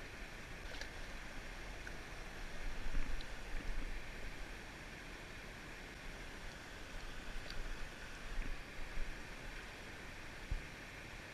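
Steady rushing of a flowing river, with low rumbles and a few faint ticks.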